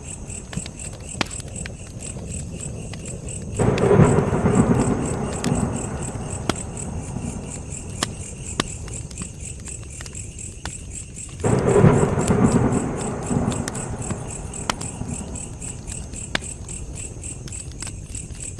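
Campfire crackling with scattered sharp pops, over a steady, evenly pulsing chirp of crickets. Twice a low rumble swells up and fades away over a few seconds.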